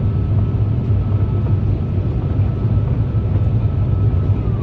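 Cabin noise aboard an Airbus A350 in flight: a steady low rumble of airflow and engines, with a faint high whine that starts dropping in pitch near the end.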